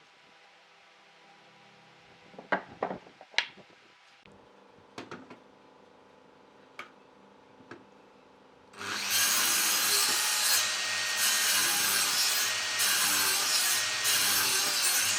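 A few sharp knocks of wood being handled, then about nine seconds in a loud, continuous rasping noise of wood being sawn starts abruptly and keeps going.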